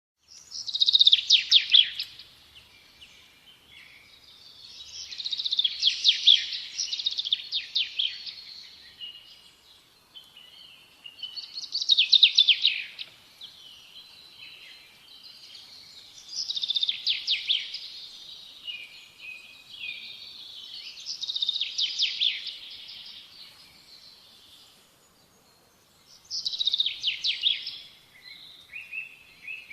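A small songbird singing in repeated high phrases, one about every five seconds, each a quick run of rapid trilled notes lasting one to three seconds, with short pauses between.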